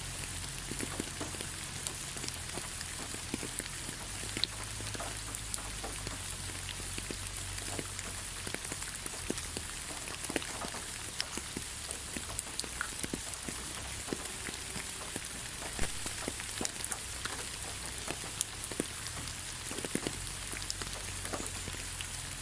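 Steady light rain falling, a constant hiss with many scattered individual drop ticks and patters.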